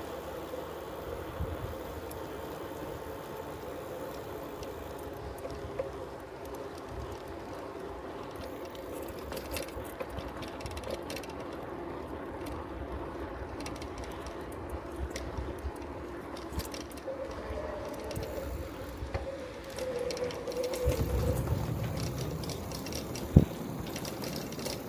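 Bicycle rolling along a road, with a steady hum of tyres and drivetrain, low rumble and scattered small ticks from the freewheel. One sharp knock near the end.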